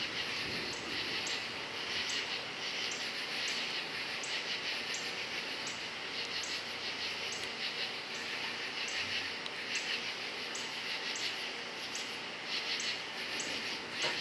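Crickets chirping in a steady chorus, a dense run of rapid pulsed trills repeating evenly.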